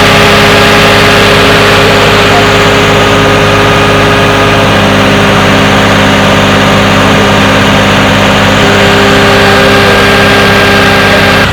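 Heavy diesel engine of a construction machine running loud and close at steady, raised revs, holding one even pitch throughout.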